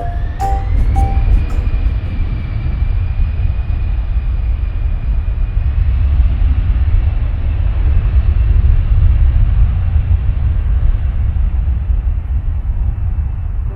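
Jet airliner's engines running loud with a deep rumble, a turbine whine rising over the first couple of seconds and then holding steady, as of an aircraft on its take-off run or passing close by.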